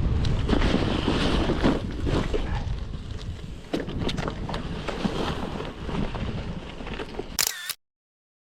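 Wind rumbling on the microphone during a bicycle ride, with irregular clicks and rattles. A short high squeal comes just before the sound cuts off abruptly near the end.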